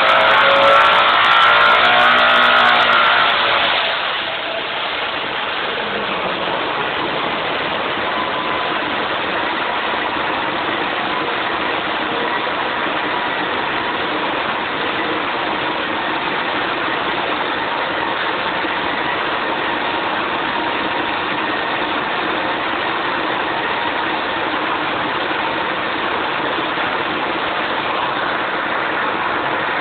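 Built 3.0-litre turbocharged Porsche 968 four-cylinder engine running on a dyno. It runs loud at high revs for the first few seconds, then drops back about four seconds in to a steady, quieter run at lower speed.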